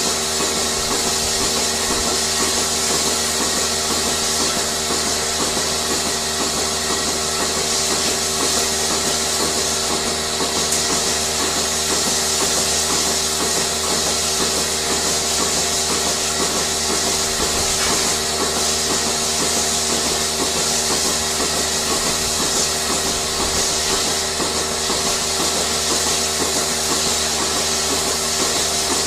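Steady dairy-barn machinery noise: a loud, even hiss over several steady hums, with a fast regular pulsing of about two to three beats a second.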